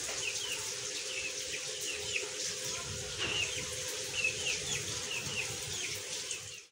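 Birds chirping repeatedly, a few short chirps a second, over a steady hiss of falling rain.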